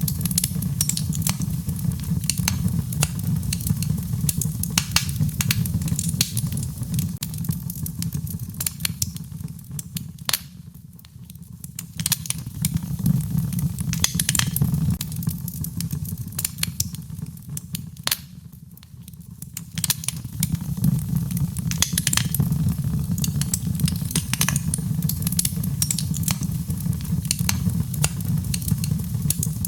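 Wood fire in a fireplace crackling, with frequent sharp pops and snaps over a steady low rumble; the crackling eases off twice for a second or two.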